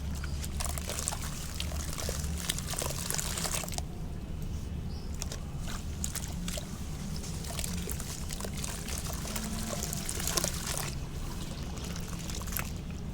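Soft sand-cement pieces dipped in water, crumbling with a dense fizzing crackle and trickling water. The crackle is strongest in two spells, at the start and again for a few seconds past the middle, with a quieter stretch between them.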